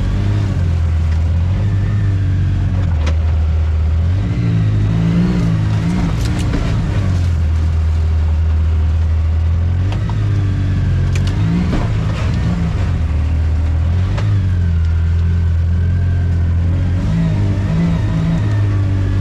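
ATV or side-by-side engine running under way on a trail, its speed rising and falling repeatedly as the throttle is worked, with a few sharp knocks here and there.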